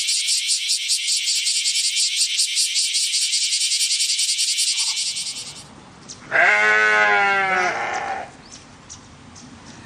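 An insect buzzing in rapid, even pulses, which stops about five and a half seconds in; then a sheep gives one loud, wavering bleat lasting about a second and a half.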